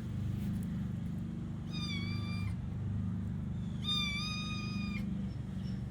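Kitten meowing twice, high-pitched, the second call longer, over a steady low hum. The owner takes the meowing as the kitten wanting to go back inside.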